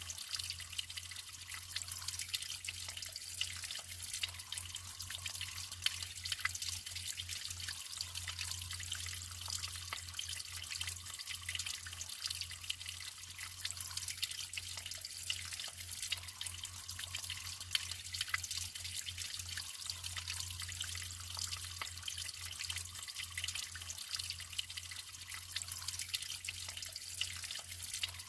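Natural running water flowing and trickling steadily, full of small drip-like splashes.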